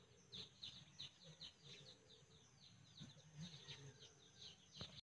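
Faint birds chirping: many short, falling chirps, several a second, with a single click near the end just before the sound cuts off.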